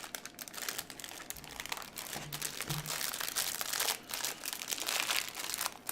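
Plastic wrapper of a packet of lemon cookies crinkling and rustling as it is handled and opened, in dense irregular crackles throughout.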